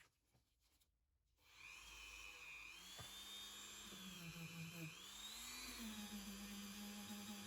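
Faint scratching, then about a second and a half in a small high-speed rotary tool starts and runs with a whine whose pitch dips and rises several times.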